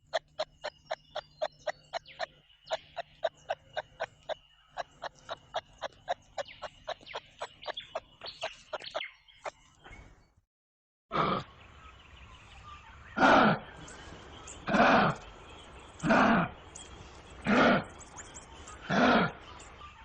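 Recorded wild animal calls: first a rapid run of short pulsed calls, about two a second, then after a brief pause a series of loud calls repeated about every second and a half.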